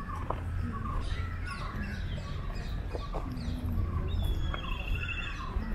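Birds chirping and calling: many short downward-sliding chirps, with a rapid trill about four seconds in.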